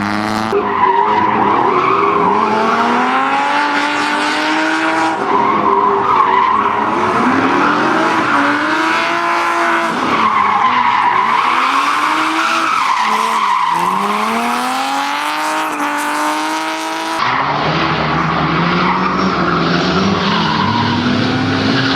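Car engine revving up and down under hard driving, with tyres squealing through the corners. About seventeen seconds in the sound cuts abruptly to a lower, steadier engine note.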